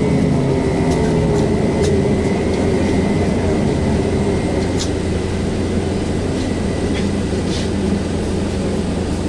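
Cabin noise of a VMZ-5298.01 trolleybus under way: a steady electric motor hum and road rumble, with a thin high whine that fades out about seven seconds in and occasional light rattles and clicks.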